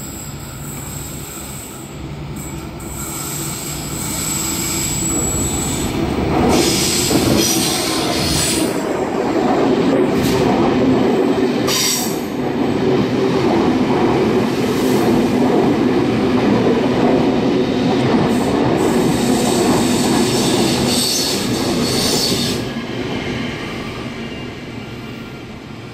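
A diesel-hauled transfer of decommissioned stainless-steel double-deck C-set suburban carriages passing through the station. The rumble of wheels on rail builds from about four seconds in, with squeals from the wheels at times, and fades as the train draws away near the end.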